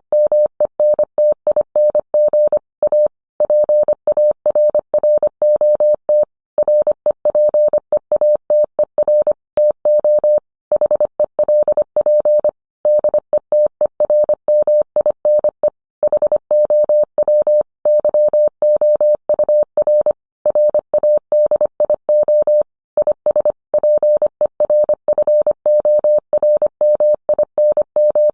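Morse code sent as a single steady mid-pitched tone, keyed rapidly in short and long elements with brief pauses between characters and words.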